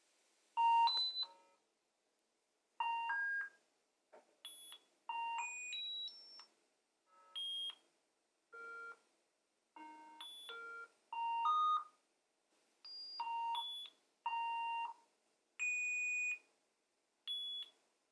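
A series of about a dozen short electronic beeps at changing pitches, each under a second long with silent gaps between them; some bursts sound two tones together or step quickly from one tone to another.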